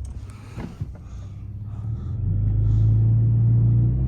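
Motor vehicle engine running with a low rumble; about two seconds in, a steady low hum comes in and it grows much louder, holding at that level.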